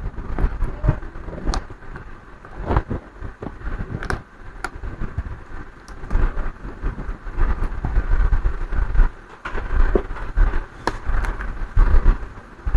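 Irregular clicks, knocks and low bumps of a laptop's plastic case and broken hinge parts being handled and examined.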